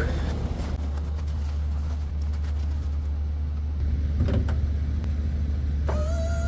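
Steady low rumble of a GMC pickup's running engine, heard from inside the cab. Near the end a steady high tone starts up.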